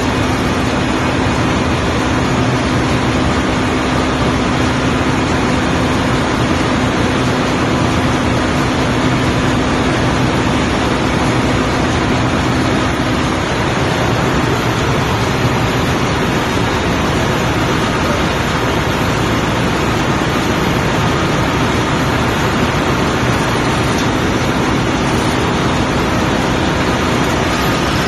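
Ship's engine-room machinery running: a loud, steady wash of noise with a steady hum that drops out about halfway through.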